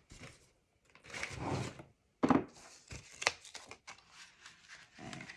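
Paper flap being handled and set down on a work surface: a rustle about a second in, then two sharp taps and a run of small crinkles and ticks.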